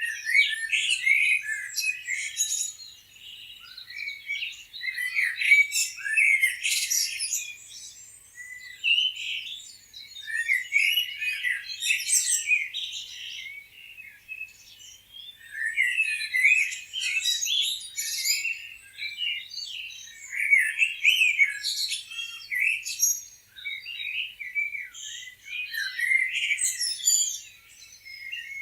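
Several small birds chirping and twittering together, many short overlapping high calls coming in bursts with brief lulls between.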